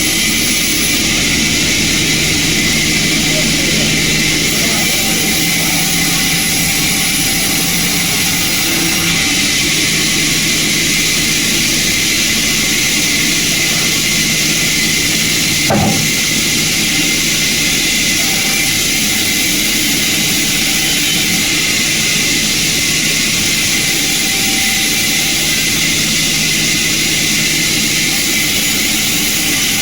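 Sawmill machinery running steadily, a loud even mechanical noise with a single sharp knock about sixteen seconds in.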